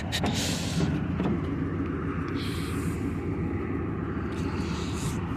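Pickup truck engine running with a steady low rumble, with two short spells of hiss about two and a half and four and a half seconds in.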